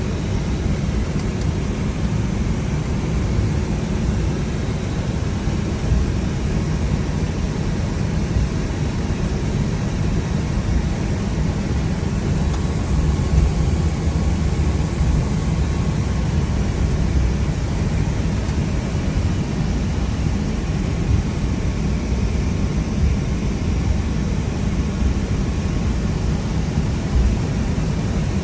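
Steady flight-deck noise of an Airbus A321 on the ground before take-off: an unchanging low rumble with an even hiss over it.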